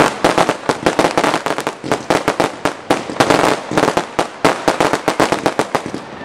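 Consumer firework cakes firing in a fast barrage: rapid sharp bangs and crackling reports, many each second, thinning out and growing quieter near the end.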